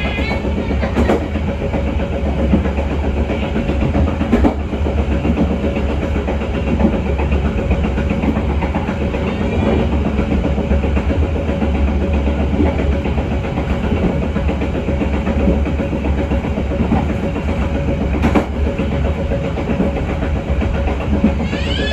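Passenger train running along the track: a steady low rumble with a constant mid-pitched tone, and a few sharp clicks from the wheels on the rails.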